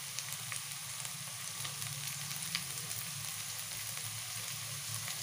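Sliced onions, ginger-garlic paste and chopped carrot sizzling steadily in hot ghee in a non-stick kadai, with a few faint clicks.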